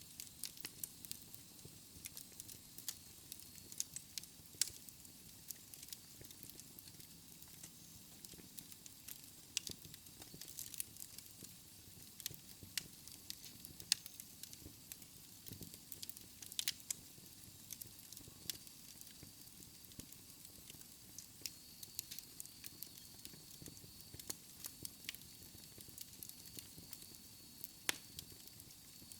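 Wood fire crackling: irregular sharp pops and snaps from the burning logs over a soft low rumble and hiss of the flames, a few pops louder than the rest.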